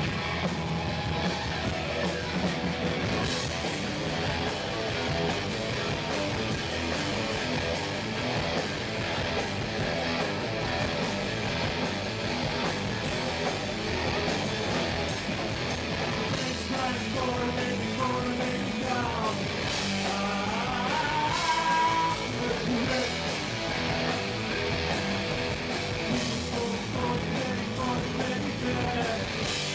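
Rock band playing live: electric guitar over a steady drum beat.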